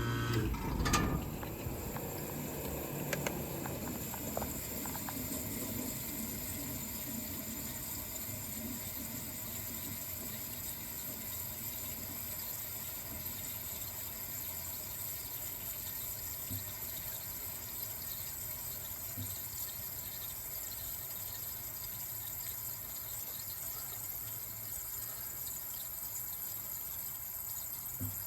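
1978 Comfort-Aire Quietmaster room air conditioner switching off: its running hum cuts off at the start, with a click about a second in, and the sound dies away over the next few seconds, leaving a faint steady hiss.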